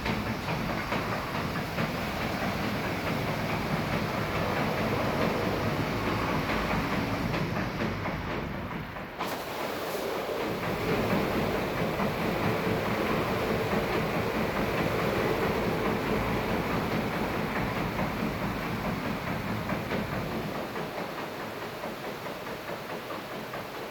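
Automatic car wash machine running: a steady mix of spray hiss and clattering machinery, dipping briefly about nine seconds in.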